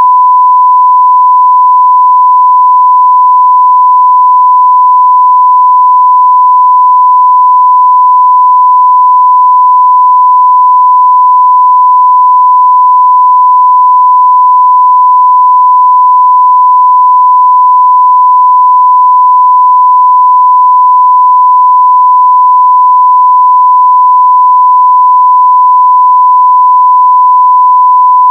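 Continuous 1 kHz sine-wave test tone at full scale (0 dB), a steady pure beep that holds unchanged.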